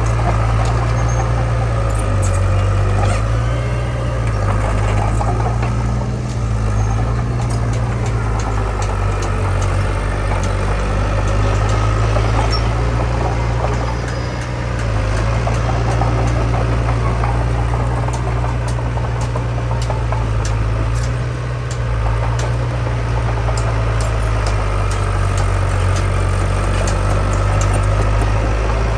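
Diesel engine of heavy earth-moving machinery running steadily, a deep drone that rises and falls slightly, with scattered sharp clicks and clanks over it.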